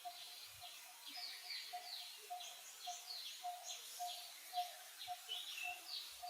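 Birds calling in the background: many short downward-sliding chirps, with a steady low note repeated about twice a second.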